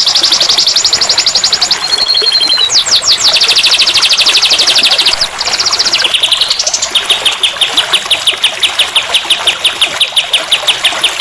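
Recorded songbird tutor song (masteran): loud, high-pitched trilled phrases, each a fast string of repeated notes, switching to a new phrase every second or two over a steady hiss.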